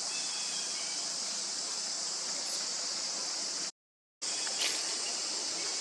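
Steady high-pitched chorus of forest insects over an even background hiss. The sound cuts out completely for about half a second around four seconds in.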